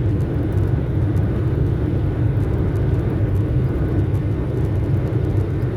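Steady low rumble of a Boeing 737-900's CFM56-7 jet engines and rushing air during take-off, with no breaks or changes.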